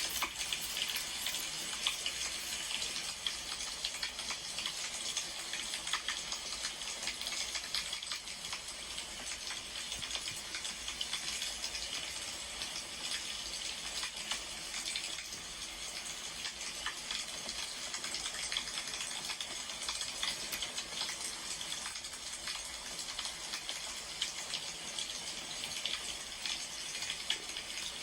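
Wood fire burning, a steady hiss dotted with many small crackles and pops.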